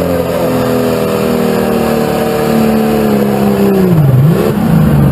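An International pulling tractor's engine running hard under load down the pull track, its pitch held nearly steady and sagging slowly, then dropping sharply about four seconds in as the driver comes off the throttle, with a short rev back up.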